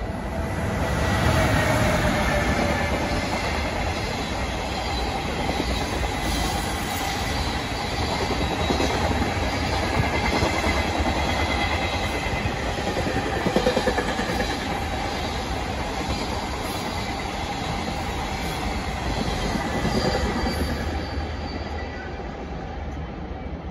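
JR Freight EF210 electric locomotive passing at speed, with a tone falling in pitch as it goes by about a second in. A long string of container wagons follows, rumbling and clattering over the rails, and fades near the end.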